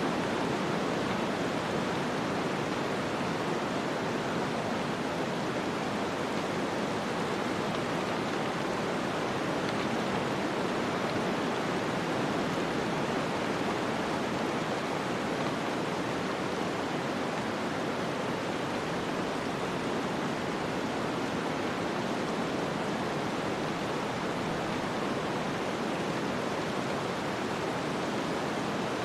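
Snowstorm ambience: an even, unbroken rushing of wind and blowing snow, with no separate sounds standing out.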